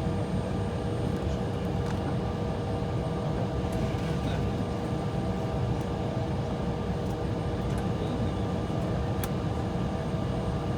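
Steady cabin noise inside an Embraer E175 airliner on the ground: a low rumble with a constant hum, and a few faint ticks.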